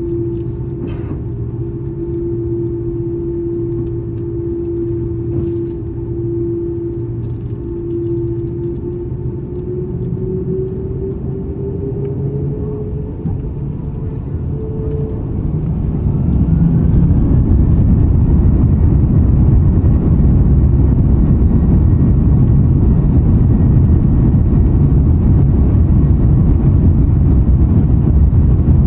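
Airbus A330-300 jet engines: a steady engine whine that rises in pitch as the thrust comes up, then, about halfway through, a sudden jump to a loud, steady low rumble as the engines reach takeoff power for the takeoff run.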